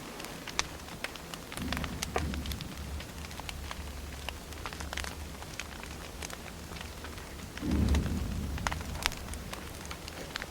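Burning firewood: irregular sharp crackles and pops over a low steady rumble. There are two louder low swells, about two seconds in and again about eight seconds in.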